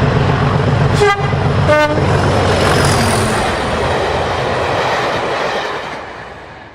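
A train running with a heavy rumble, sounding two short horn toots, the second lower in pitch, about one and two seconds in. The sound then fades away near the end.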